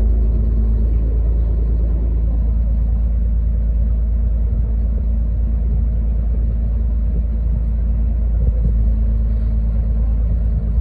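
Water bus (vaporetto) engine running with a steady low rumble.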